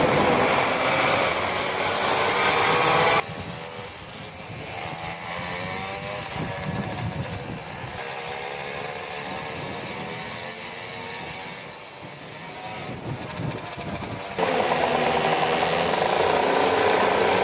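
Mini motorbike engines running on a track, their pitch rising and falling as the riders open and close the throttle. About three seconds in the sound drops abruptly to a quieter, more distant engine noise, and it jumps back to loud engine sound near the end.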